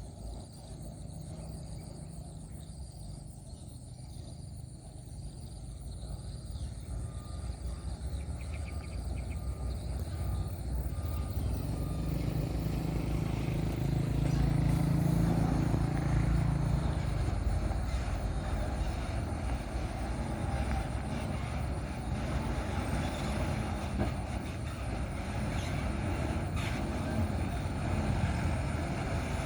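Diesel truck engine running under load on a rough road, growing louder over the first half as it comes closer, then staying at a steady rumble.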